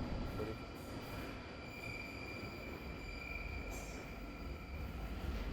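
Passenger train running, heard from inside the carriage: a steady low rumble with a thin, steady high-pitched whine over it.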